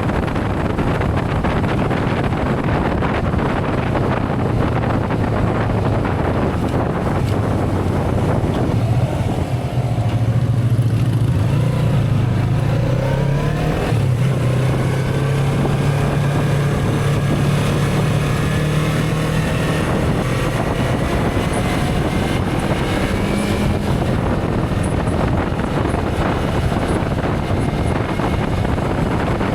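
Motorcycle engine running under way, with heavy wind rush over the microphone. About ten seconds in the engine note rises as it accelerates, drops at a gear change a few seconds later, then holds steady.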